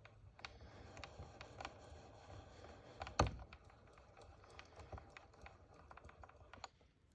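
Irregular light clicks and taps from hand work on a small Sherline lathe, with one louder knock about three seconds in, over a faint low hum that stops near the end.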